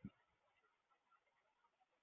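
Near silence, with one faint short low knock right at the start.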